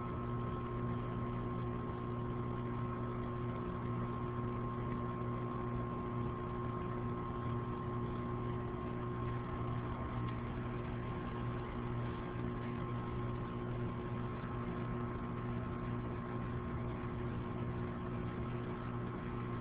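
Steady mechanical hum, several unchanging tones, over a constant hiss.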